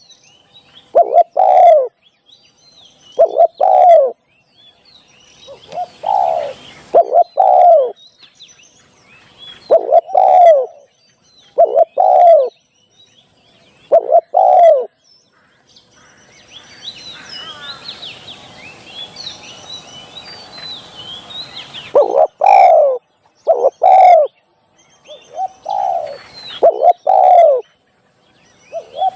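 Spotted dove cooing in short, repeated phrases of two or three coos every few seconds. About halfway through, the coos pause for several seconds while smaller birds chirp faintly, then the cooing starts again.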